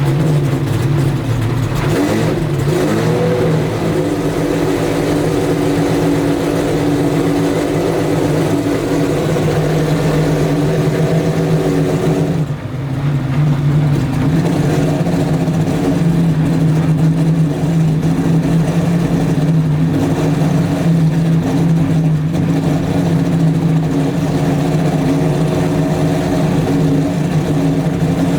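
Jaguar XJR-8 race car's V12 engine running at a steady fast idle, with a short rev about two seconds in and a brief dip in level about halfway through.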